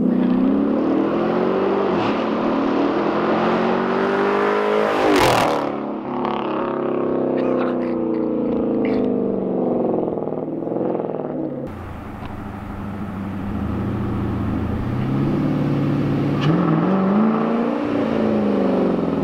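Straight-piped V8 exhaust of a 2015 Dodge Challenger R/T, with headers and stock catalytic converters and no mufflers, its note climbing and then falling as the engine is revved or driven hard, twice over. A sharp burst comes about five seconds in.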